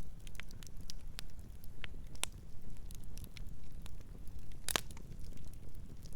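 Campfire crackling: scattered sharp pops and snaps over a steady low rumble, with one loud snap a little under five seconds in.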